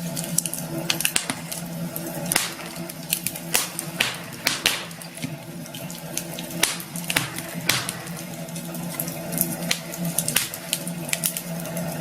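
Campfire burning, wood crackling with frequent irregular sharp pops over a steady hiss, and a low steady hum underneath.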